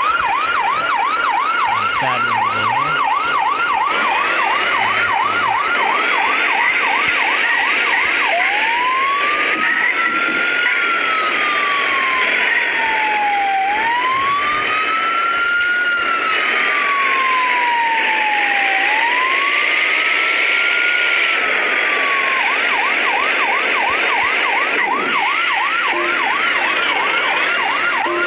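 Emergency-vehicle siren, as on an ambulance, switching patterns: a fast yelp of several rises a second for the first several seconds, then a slow wail rising and falling every two to three seconds, then back to the fast yelp near the end.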